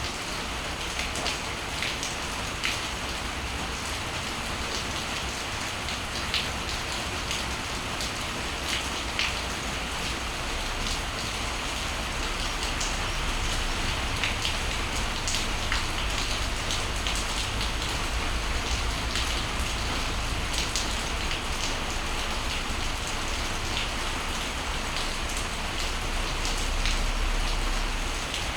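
Steady morning rain, with many distinct drops striking close to the microphone over the even patter. A low rumble swells in the middle and again near the end.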